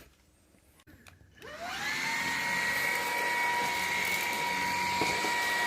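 Xiaomi Mi G10 cordless stick vacuum cleaner switched on after about a second and a half of near silence: its motor spins up with a rising whine and settles into a steady high whine over a rush of air.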